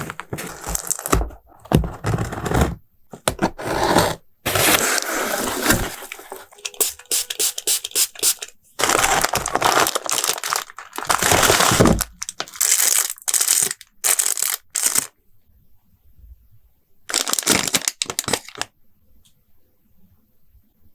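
Plastic packaging being crinkled and torn open by hand, in irregular crackling bursts with short pauses between them.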